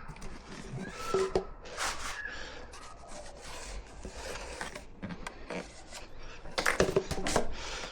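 Irregular scraping, rubbing and knocking of hand work on building materials, with a louder cluster of knocks and scrapes near the end.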